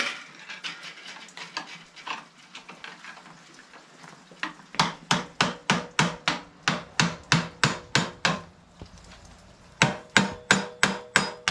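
Hammer blows on a metal part of a mini chopper being split apart. After a few seconds of light scraping and clicking come about a dozen quick, even strikes, a short pause, then another half-dozen strikes with a ringing metallic note.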